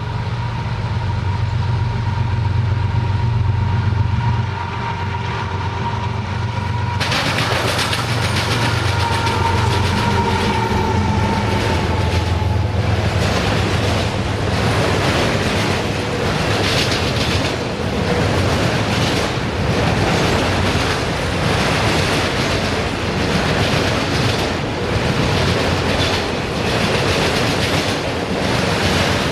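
Freight train passing close by: the GE GEVO diesel locomotives' 12-cylinder engines drone at first, then from about seven seconds in the steel wheels of a long string of autorack cars roll past, rumbling and clattering steadily over the track.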